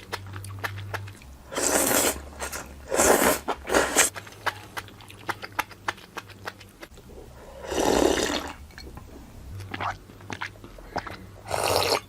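Close-up eating sounds of grilled barbecue skewers: rapid small chewing clicks throughout, broken by five louder crunching bites, the longest about eight seconds in.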